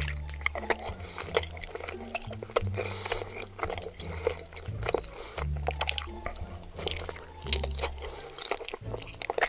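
Close-miked chewing of a mouthful of chewy, cheese-covered tteokbokki rice cakes: many quick wet clicks and smacks. A bass line from background music plays steadily underneath.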